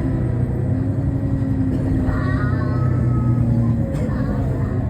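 Nova Bus LFS city bus engine and drivetrain heard from inside the bus while it pulls away: a steady low drone, with a brief higher whine about two seconds in.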